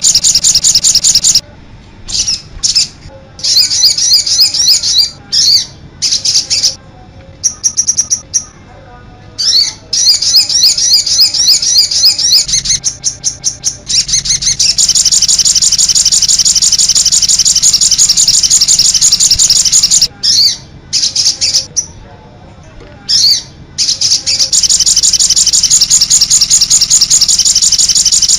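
Recorded songbird song of the kind used as a masteran training track for songbirds: rapid, high-pitched trills and chattering notes. It breaks into short bursts with brief pauses several times before running on steadily again.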